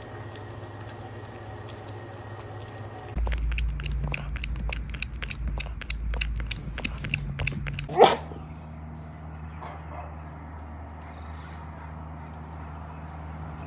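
A pet's scuffle: a rapid run of clicks and knocks for about five seconds, ending in one short, loud, rising cry, over a steady low hum.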